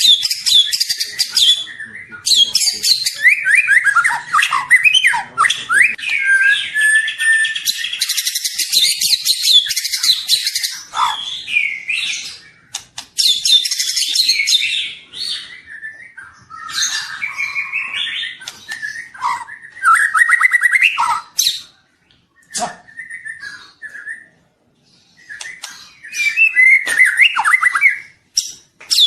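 Young white-rumped shama (murai batu) singing a loud, varied song of rapid chirps, trills and whistled slides in quick phrases, falling almost silent for a few seconds about three-quarters of the way through before starting again.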